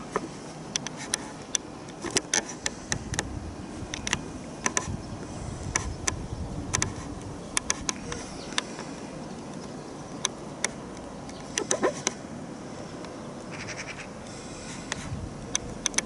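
Steady wind noise with many scattered, irregular sharp clicks and taps.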